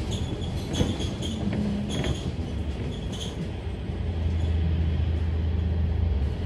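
Cabin noise of a Scania K310UD double-decker bus on the move: a continuous low engine and drive drone, with rattling clicks and short squeaks in the first three seconds. The engine drone grows stronger from about four seconds in and eases off just before the end.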